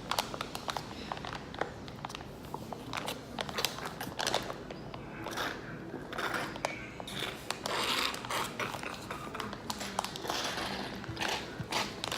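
Eating sounds: chewing and mouth noises with many scattered sharp clicks and rustles.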